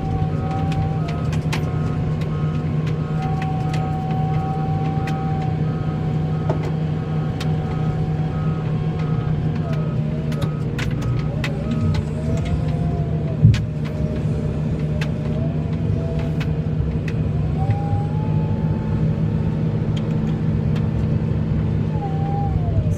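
A vehicle engine running steadily under load while plowing snow, with a whine that drifts up and down in pitch and scattered clicks. A single sharp knock comes about halfway through.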